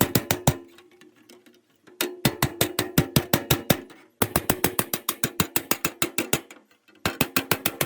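Rapid hammer blows on metal, about seven a second, in runs of one to two seconds with short pauses between them; each blow rings with the same tone.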